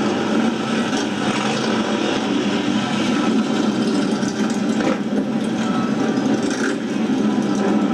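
Motorcycle engines running together in a steady, dense rumble of many bikes idling.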